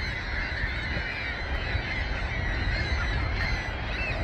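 A large flock of seagulls calling all at once, many short overlapping cries with no pause.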